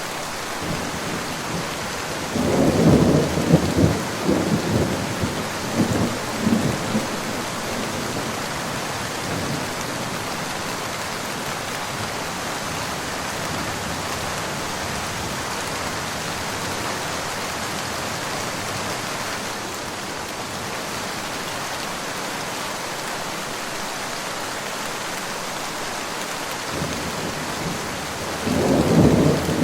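Steady rain falling, with a roll of thunder rumbling in about two seconds in and dying away over the next five seconds or so. A second roll of thunder begins near the end.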